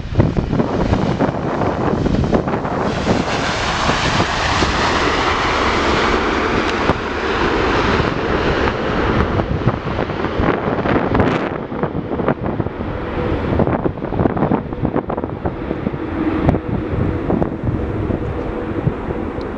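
Jet airliner's engines as it passes, growing louder to a peak about four to eight seconds in and then easing off. Wind buffets the microphone throughout.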